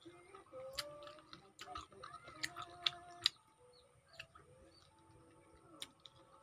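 Wet mouth clicks and smacks of someone chewing sour raw lemon slices, sharpest in a cluster around two to three seconds in. Faint bird calls sound behind.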